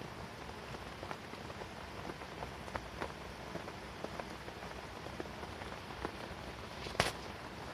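Rain falling on a tent, a steady hiss dotted with scattered drops and light ticks, with one sharp snap about seven seconds in.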